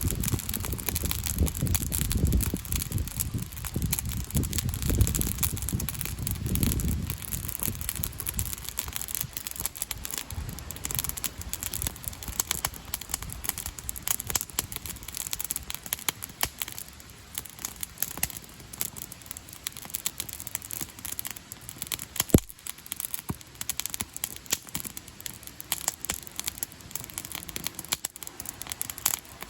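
Wood campfire crackling, with many small irregular pops and one sharper pop about twenty-two seconds in. A low rumble runs under it for the first seven seconds or so.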